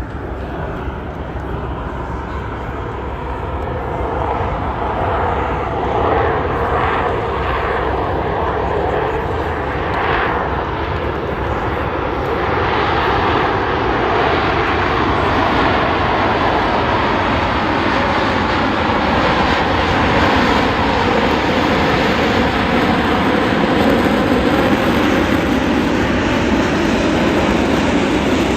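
Jet roar from Blue Angels F/A-18 Super Hornets flying overhead, growing steadily louder. Its pitch shifts slowly as the jets pass.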